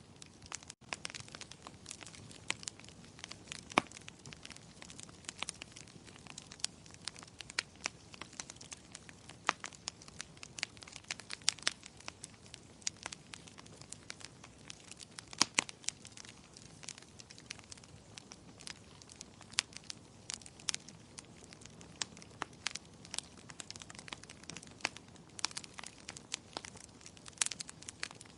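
Wood fire in a fireplace crackling, with irregular sharp pops over a low steady hiss; the biggest pops come about 4 and 15 seconds in.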